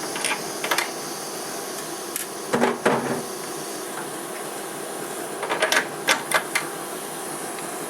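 Metal tooling clicking and clattering in short groups as the tool in the Emco F1 CNC mill is changed by hand, over a steady hiss and hum.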